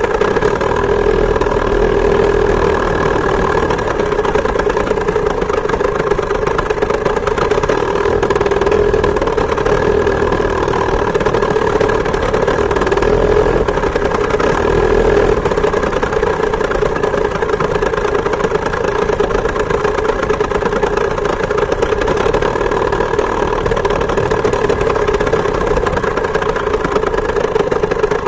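Small two-stroke chainsaw engine driving a homemade moped, running steadily at an even pitch with no revving up or down.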